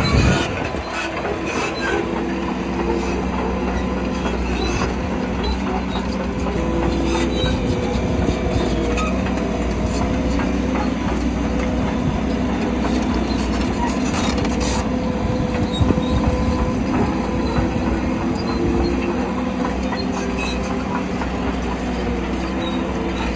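Shantui crawler bulldozer working: its diesel engine runs steadily under load while the steel tracks clank and squeal.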